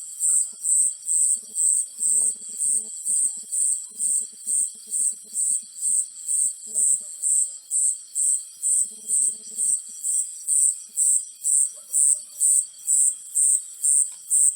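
High-pitched insect chirping in an even rhythm, about two chirps a second, with fainter low rattling calls now and then beneath it.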